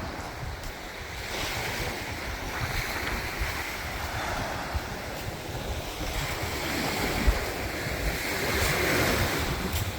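Small Mediterranean waves washing up the beach, surging twice, with breeze buffeting the microphone.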